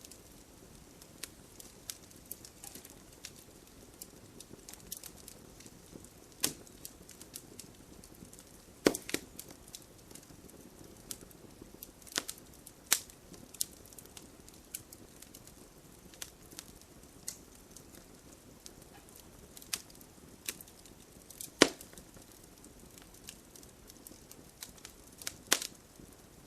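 Wood campfire burning with a soft low hiss and irregular crackling, punctuated by a handful of sharper, louder pops.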